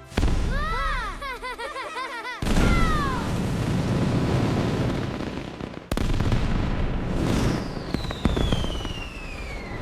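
Cartoon sound effects: a quick run of short chirping tones, then a loud noisy rush, and a long whistle that falls steadily in pitch over the last couple of seconds.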